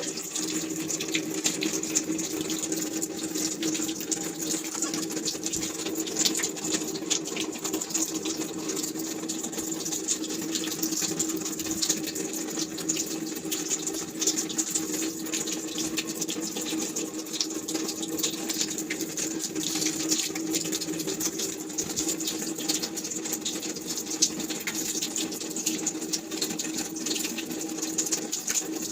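Water running and splashing steadily, with a dense spatter of droplets and a steady hum beneath it.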